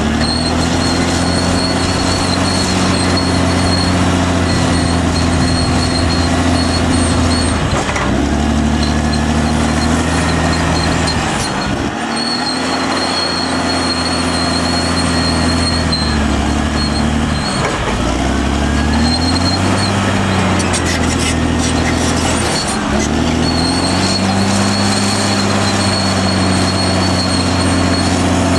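Caterpillar D6R XL bulldozer's diesel engine running under load. Its pitch dips briefly about six times and recovers as the blade takes on soil. A thin, steady high whine comes and goes over the engine sound.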